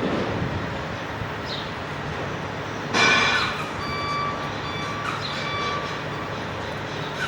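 Steady vehicle and workshop noise, with a sudden loud burst about three seconds in, followed by an on-and-off high beeping like a truck's reversing alarm.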